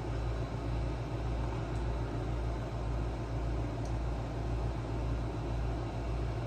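Steady low mechanical hum with an even background hiss, with a few faint tiny clicks.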